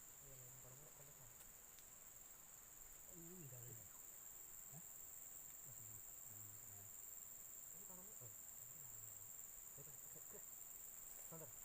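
Steady, high-pitched chorus of insects, faint under low, indistinct voices.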